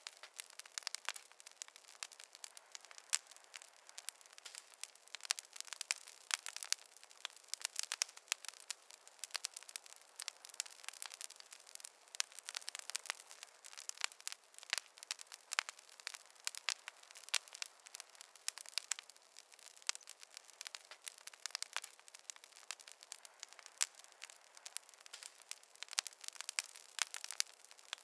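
Wood fire crackling: many small irregular pops and snaps over a faint hiss, with no low rumble.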